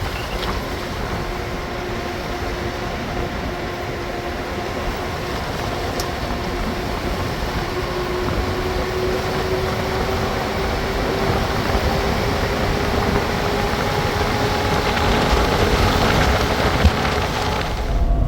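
A motor vehicle's engine running steadily, its drone rising slowly in pitch, over a constant rushing noise.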